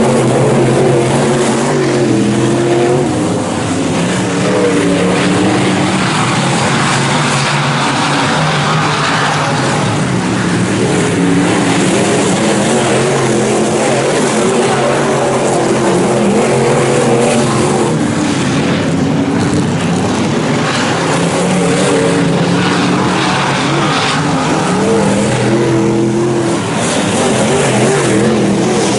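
IMCA Northern SportMod race cars running laps on a dirt oval, their V8 engines sounding together and rising and falling in pitch again and again as they accelerate and back off.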